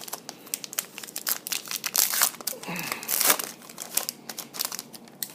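Foil wrapper of a sports card pack being torn open and crinkled: a dense run of crackles, loudest about two and three seconds in.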